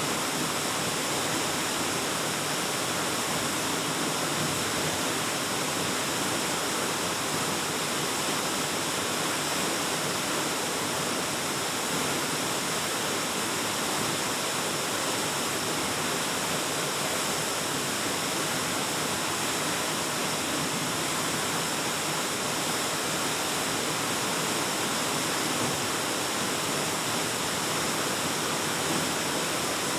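Waterfall pouring steadily: a dense, even rush of falling water that does not change.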